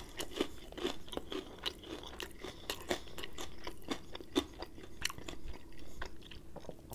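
A person chewing a mouthful of crispy fried chicken, the breading crunching in many small, irregular crackles.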